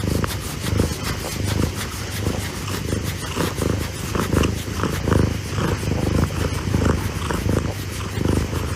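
A cat purring close up, swelling and fading in steady waves with its breathing.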